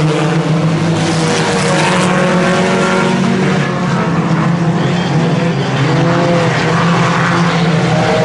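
A field of IMCA Sport Compact race cars running at speed, their four-cylinder engines overlapping in a steady, loud drone with pitches that rise and fall as cars pass.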